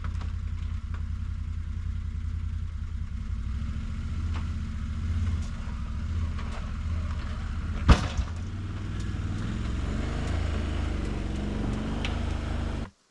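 An engine running steadily with a low drone, with one sharp, loud knock about eight seconds in. The sound cuts off suddenly near the end.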